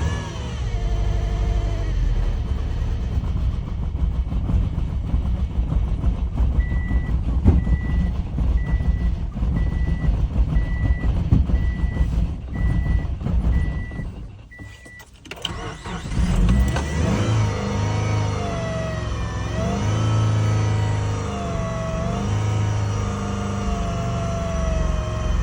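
The 2007 Subaru Forester 2.5XS's flat-four engine is running rough after a hard start in extreme cold, with a chime beeping steadily about twice a second. About halfway through the engine sound drops away briefly, then comes back with the revs rising and falling.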